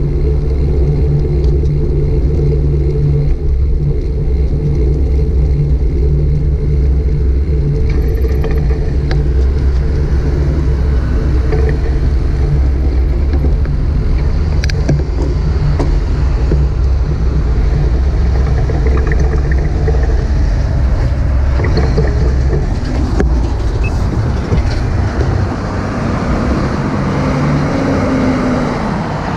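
Steady, loud wind rumble and road noise on a bike-mounted GoPro's microphone while cycling, the low rumble easing a little near the end as traffic noise comes up.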